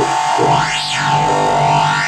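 Modular synthesizer lead: a distorted, FM-modulated saw-wave note through a resonant Cwejman MMF-6 filter. The filter opens and closes, so the tone sweeps up and down in brightness about once a second, peaking just under a second in.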